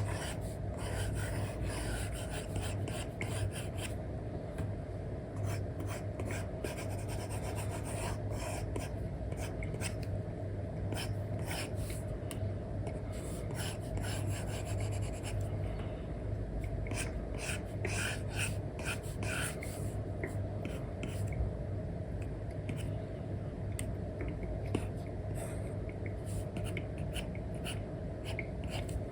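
Stylus nib scratching and tapping across a paper-like matte screen film on an iPad, in many quick short strokes, over a steady low background noise.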